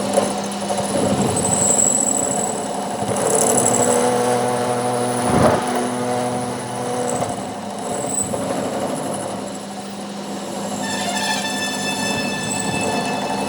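Machinery running with a steady hum, one sharp knock about five and a half seconds in, and a higher whine that joins at about eleven seconds.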